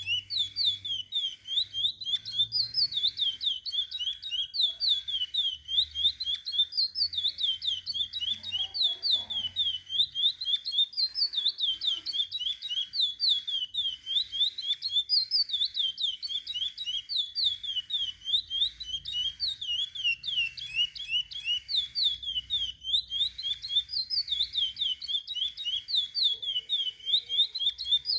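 Chestnut-bellied seed finch (curió) singing without a break: a fast run of short, sliding whistled notes, repeated in phrases every few seconds.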